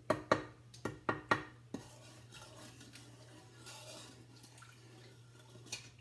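A spoon clinks against a saucepan about six times in the first two seconds, then swishes more quietly through the sauce. One more clink comes near the end. The sauce is being stirred to dissolve powdered ginger.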